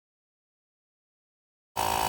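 Dead silence, then near the end a loud, steady mechanical buzz from a small motor cuts in abruptly.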